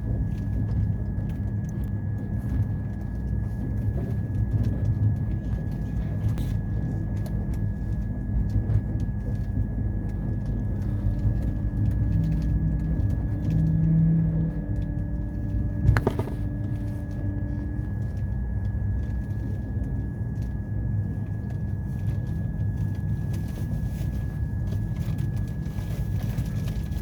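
Train running with a steady low rumble and a constant thin high whine over it. A faint held tone sounds through the middle, and a single sharp click comes about two-thirds of the way through.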